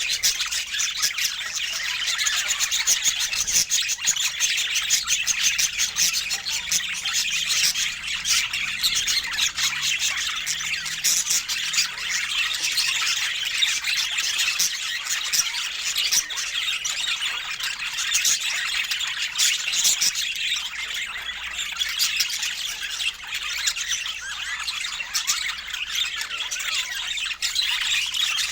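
Several budgerigars chattering and chirping continuously, a dense stream of fast warbles, squawks and clicks with no pauses.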